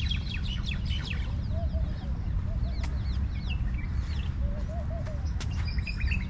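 Several birds calling: short high chirps and whistles scattered through, with a lower warbling call repeated a few times, over a steady low rumble.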